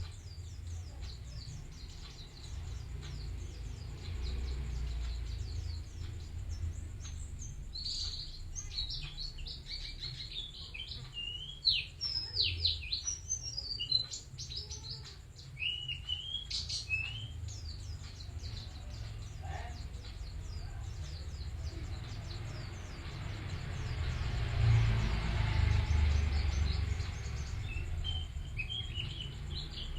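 White-eye (pleci) singing a fast, twittering song of quick high chirps and short trills, in bursts with pauses between. Beneath it runs a steady low rumble, and a broad hiss swells for a few seconds near the three-quarter mark.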